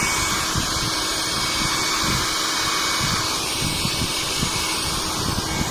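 Philips HP8100/60 1000 W hair dryer running, a steady rush of blown air with a faint high whine from its motor, testing its speed setting.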